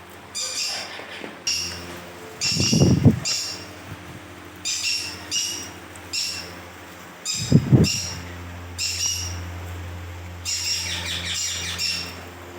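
Indian ringneck parakeets calling: a string of short, sharp calls about once a second, bunching into a quick run near the end. Two loud low thuds come about 3 and 8 seconds in.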